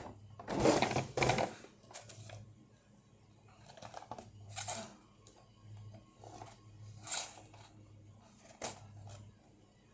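Toy packaging being opened by hand: a loud burst of tearing and crinkling about a second in, then a few shorter rustles. The packaging is tough to get open.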